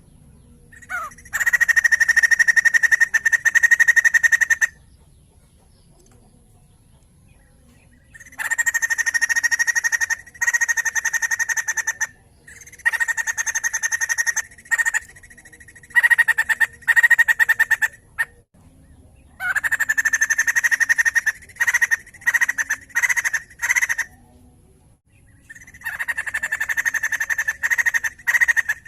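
White-crested laughingthrush (poksay jambul) calling in long bouts of rapid, rattling chatter at a steady pitch. There are six bursts, with short pauses between them.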